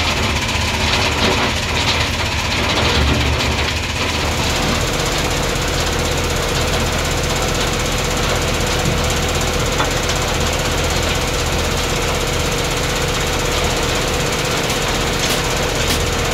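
SBS 1820 F3 mobile screening plant running: a steady engine hum under a dense, continuous rattle from the machine.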